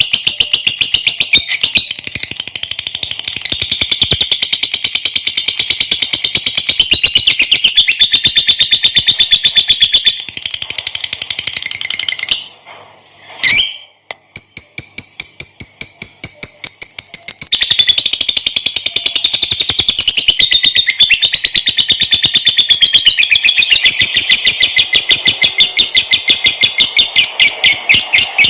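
Lovebird giving its long, rapid, high-pitched chattering trill (the 'ngekek panjang' prized in song training), which breaks off briefly about halfway through and then resumes.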